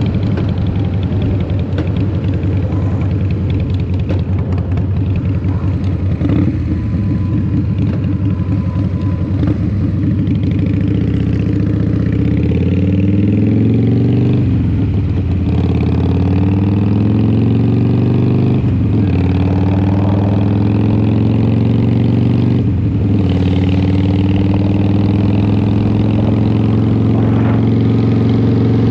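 Harley-Davidson Fat Boy's Twin Cam 88 V-twin running through a Vance & Hines exhaust under way. It runs steadily at first, then the pitch climbs and drops back three times, about halfway in and again near 19 and 23 seconds, as the bike accelerates and shifts up, before settling into a steady cruise.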